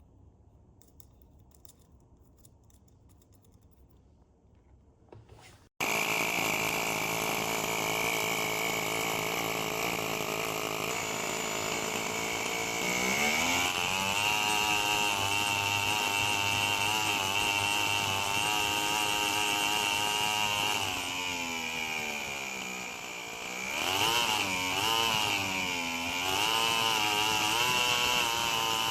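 Semto ST-NF2 miniature two-cylinder four-stroke nitro engine running, after a few very quiet seconds. The sound comes in suddenly about six seconds in, rises in pitch about seven seconds later, and near the end dips and is revved up and down a few times.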